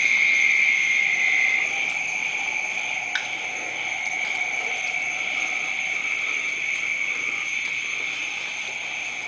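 Steady night chorus of calling animals: a continuous high trill with fainter higher and lower tones, easing slightly after a second or so, with a single faint click about three seconds in.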